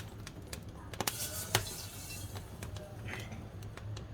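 Wood fire burning in a wood-burning stove, crackling with irregular sharp pops. The loudest pop comes about a second and a half in.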